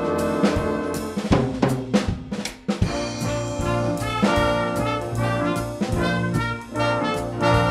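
Instrumental music from a brass ensemble with drum kit: trumpets and trombones playing sustained chords over snare and drum hits.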